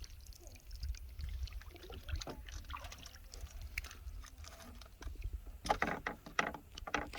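Canoe being paddled: the paddle dips and splashes in the water and knocks lightly against the hull, with a denser, louder run of strokes and knocks near the end, over a steady low rumble.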